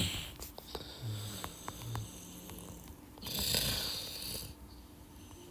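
Scattered light clicks, typical of typing a search on a keyboard, with a loud breath close to the microphone about three seconds in.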